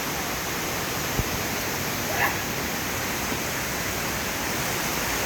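Steady rush of a large waterfall. About two seconds in comes one short, high-pitched call, and a little earlier a brief low thump.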